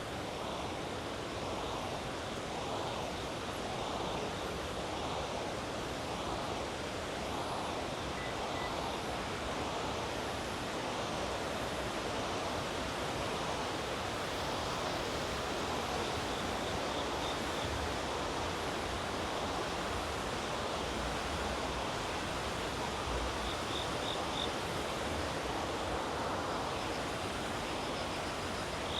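Steady rush of river water flowing. In the second half, an insect gives a few short, high trills.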